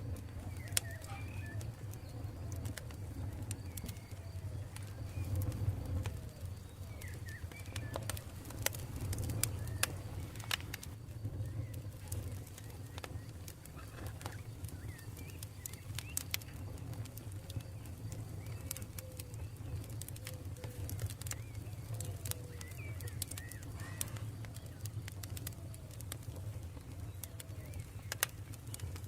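Campfire burning with scattered sharp crackles and pops over a steady low rumble, and short bird calls chirping throughout.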